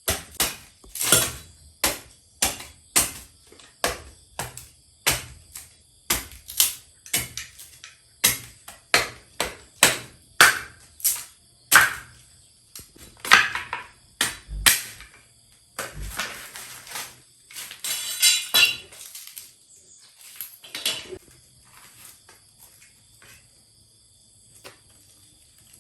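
Repeated sharp knocks, about two a second, for roughly the first fifteen seconds, then a few seconds of scraping and rustling and a few scattered softer knocks. Steady high insect chirring runs underneath.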